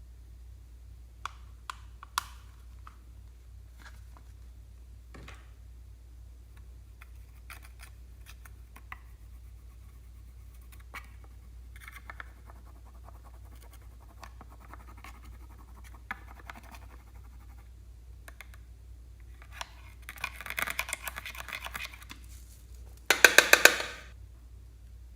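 Slime being handled: scattered soft clicks and sticky scratching, building to louder crackling about twenty seconds in and a short, loud burst of rapid popping near the end.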